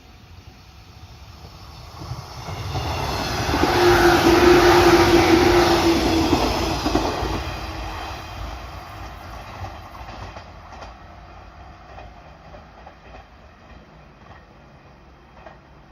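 A train passing on the line: the sound builds over a couple of seconds and is loudest for a few seconds, with a steady tone running under the rumble. It then fades, leaving a few scattered clicks.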